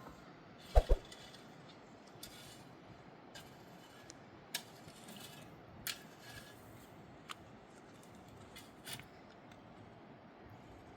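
A few scattered light clicks and knocks over a faint steady background, with a louder double knock about a second in.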